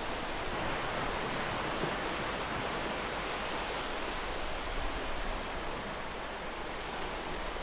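Ocean surf washing against a shore: a steady hiss of breaking waves with no single distinct crash.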